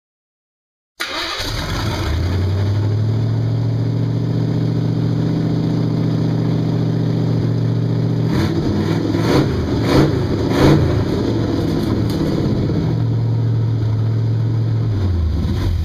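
Hot rod's Chevy V8 idling steadily, given three quick blips of the throttle a little past halfway before settling back to idle.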